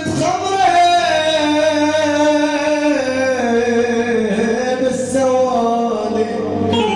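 Live Arabic music: a male voice sings long notes that glide slowly in pitch over instrumental backing.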